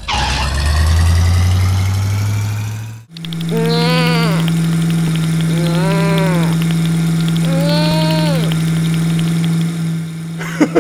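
Cartoon monster-truck engine sound effect: a low engine rev for about three seconds that cuts off abruptly, then a steady engine hum. Over the hum come three drawn-out calls that rise and fall in pitch, about two seconds apart.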